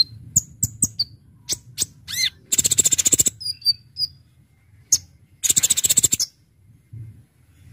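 Kolibri ninja (purple-throated sunbird) singing: sharp high chips and short whistled notes, broken twice by a fast rattling trill about a second long, a third of the way in and again past the middle.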